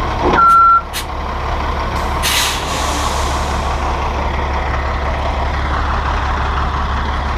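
Dump truck's diesel engine idling with a steady low rumble, a single short high beep about half a second in, and a hiss of air from the air brakes about two seconds in that fades away over a second or two.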